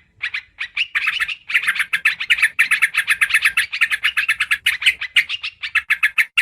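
Yellow-vented bulbul (trucukan) calls played as a lure recording: fast runs of bubbly chattering notes, a few scattered notes at first, then an unbroken rapid stream from about a second in.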